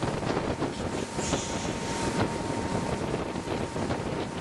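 Wind buffeting the microphone over the steady running noise of a boat underway, with a faint steady whine through the middle.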